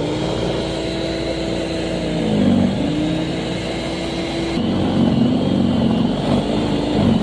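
An engine running steadily, its pitch dipping and coming back up a few times.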